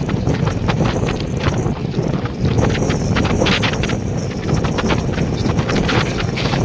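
Moving train: a steady rumble of wheels on track, with frequent sharp clacks and wind rushing over the microphone.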